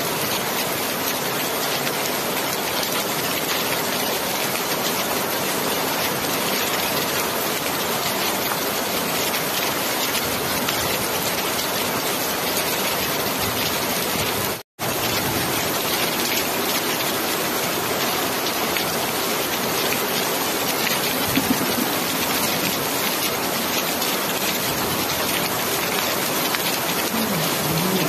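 Steady rain falling, a dense, even hiss that cuts out to silence for a split second about halfway through.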